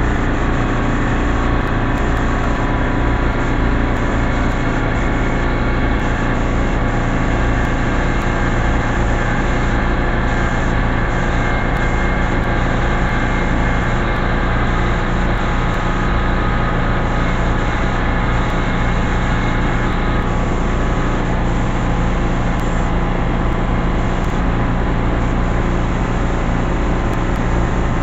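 Air compressor running steadily: a constant drone that holds the same level and pitch throughout.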